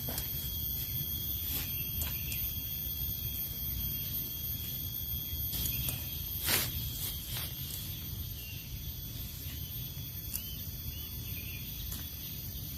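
Outdoor forest ambience: a steady high insect drone over a low rumble, with a few sharp taps, the loudest about six and a half seconds in.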